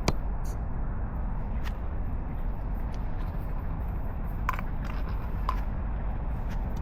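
Steady low rumble of street traffic, with a few light clicks, one right at the start and two more about a second apart near the end.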